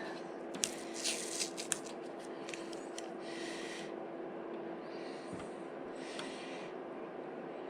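Masking tape and masking paper being handled, torn and rubbed down on a scooter side panel: a quick run of sharp crackles and clicks about a second in, then several soft rustles. A faint steady hum runs underneath.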